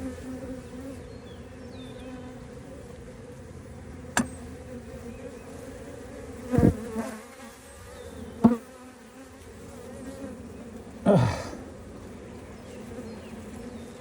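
Honeybees buzzing in a steady hum around an opened hive, with a sharp click about four seconds in and three brief louder sounds later on.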